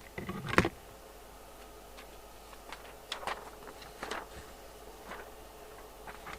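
Scattered sharp clicks and a light knock from equipment being handled on a workbench, the loudest cluster about half a second in, then a few fainter clicks.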